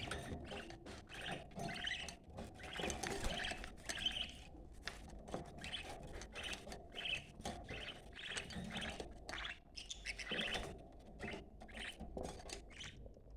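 Budgerigars chattering and warbling in quick, dense chirps, the busy flock chatter of breeding budgies; the chatter stops shortly before the end.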